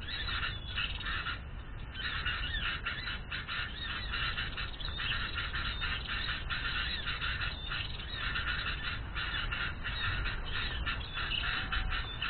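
Dense, unbroken chattering of small birds: rapid, high-pitched calls with no pause, over a low rumble.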